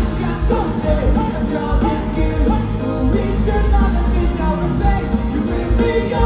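Live pop-rock band music with drums, bass and guitars and a sung melody line.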